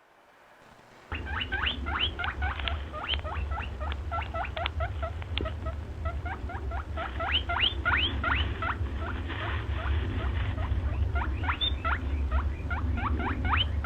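Rapid, high squeaks from a small animal, several a second, each rising quickly in pitch, starting about a second in over a steady low hum.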